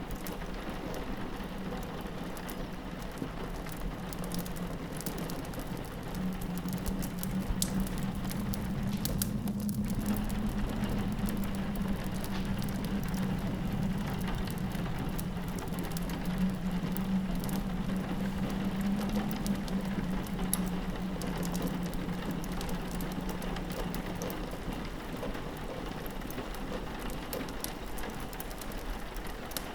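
Steady rain pattering on a window pane, with small sharp crackles and pops scattered through it from a log fire. A low drone swells in about six seconds in and fades out about two-thirds of the way through.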